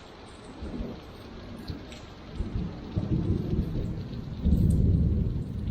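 Rolling thunder over steady rain: a low rumble that swells in waves through the middle and is loudest near the end.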